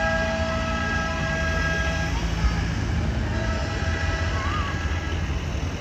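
A vehicle's multi-note air horn is held in a long blast that stops about two seconds in. A second long blast follows from about three seconds in until shortly before the end, over the low, steady rumble of tractor engines.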